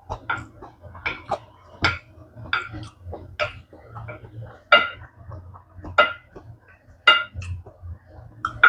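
Close-miked eating of japchae rice and dumpling soup: wet chewing and slurping in quick, irregular bites, with a few sharper clinks of utensils against the bowl.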